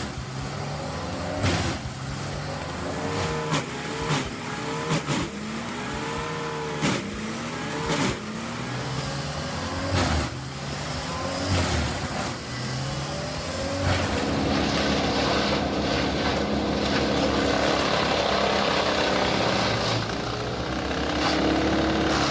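Wood chipper running under load: its engine pitch repeatedly dips and recovers as wood is fed in, with sharp cracks of wood being chipped. About fourteen seconds in, the sound changes to a steadier, denser chipping noise.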